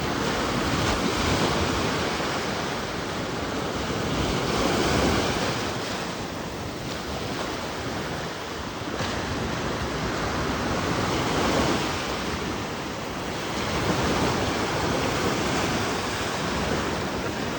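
Ocean surf: waves washing in and breaking, the rush of water swelling and falling back every few seconds.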